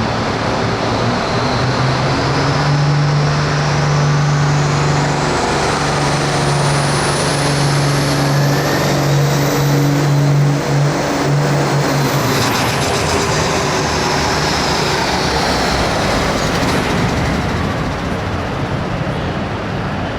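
Hot Farm class tractor's diesel engine running flat out as it pulls the sled, with a steady low engine note and a high whine climbing over it. About twelve seconds in the engine note drops away and the whine falls, as the pull ends, leaving loud rumbling noise.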